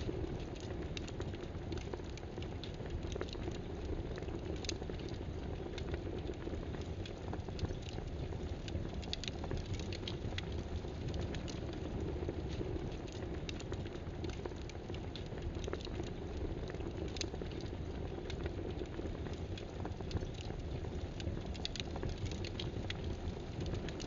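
Steady crackling hiss like rain, even throughout, with sparse soft clicks scattered through it.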